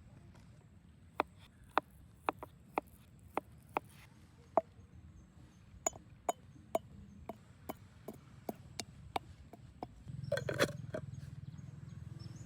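A series of sharp knocks, about two a second, then a short stretch of rougher, scraping or rustling noise near the end.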